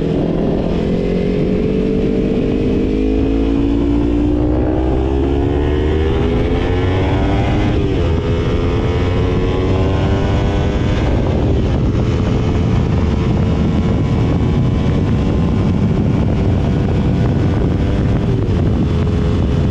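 Motorcycle engine accelerating hard through the gears, its note climbing and dropping back at each upshift, then holding a steady cruising pitch for the second half.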